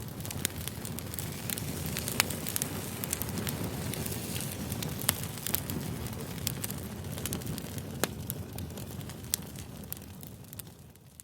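Campfire crackling: a steady low rumble of burning wood with sharp pops and snaps scattered throughout, fading out near the end.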